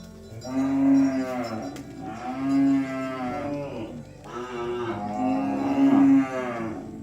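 Oxen mooing: several long, drawn-out moos one after another.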